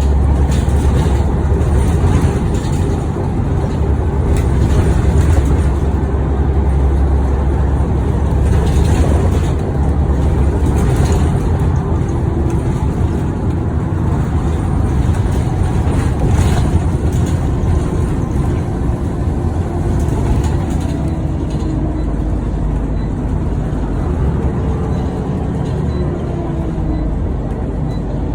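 Scania OmniCity single-deck bus heard from inside while under way: a steady low engine drone with road and body noise. A fainter drivetrain whine shifts and falls in pitch several times in the second half as the bus changes speed.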